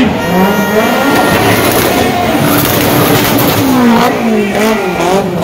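Car engine revving up and down over and over, with tyre squeal, as in a burnout or spinning stunt.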